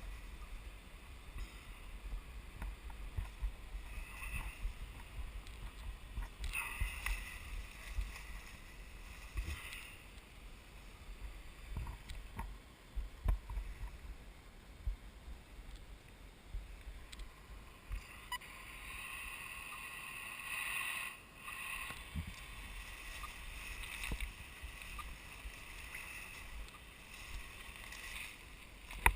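Rustling and low thumps of someone moving about in forest undergrowth, with a rumble from handling or wind on the camera's microphone. A lighter hissing rustle comes in and out, longest through the second half.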